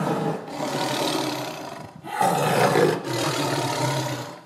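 A lion roaring over and over, each roar about a second long, with short breaks between them.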